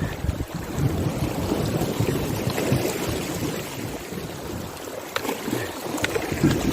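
River water rushing and splashing around a kayak, with a few sharp knocks in the second half.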